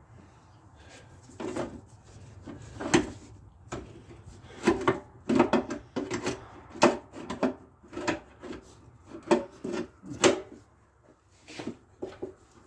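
Irregular knocks, clicks and scrapes of parts and tools being handled and fitted while working on a lawn mower's front axle.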